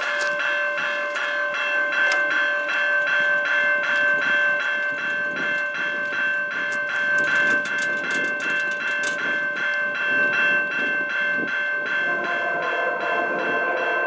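Railway level-crossing bell ringing in a steady, even rhythm of about four strokes a second.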